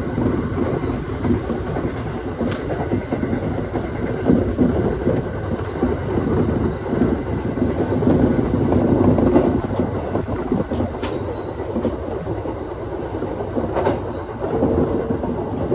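Aoimori Railway 701 series electric train running, heard from inside the car: a steady rumble of wheels on rail with a few sharp clicks.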